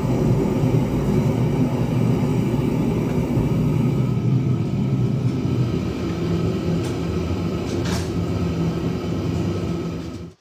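Homemade gas forge burner running steadily with a loud, low rushing sound while the blade is heated for hardening, cutting off abruptly at the end.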